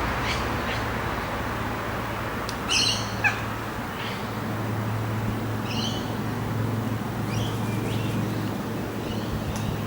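Long-billed corella giving two short, harsh calls about three seconds apart, with faint short chirps between them, over a steady low hum.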